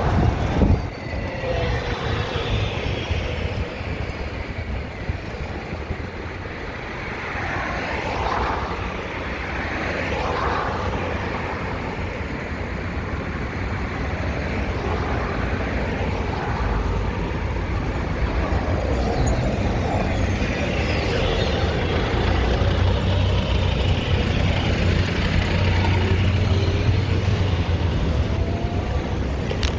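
City street traffic with vehicles passing, heard from a moving bicycle, under a steady low rumble of wind on the microphone.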